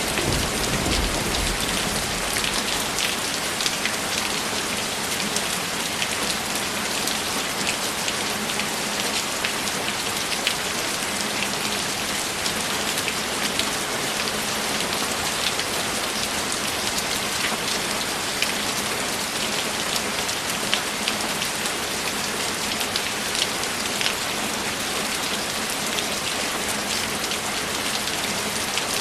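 Steady rain falling on a surface, an even hiss with single drops tapping through it. A low thunder rumble dies away in the first second.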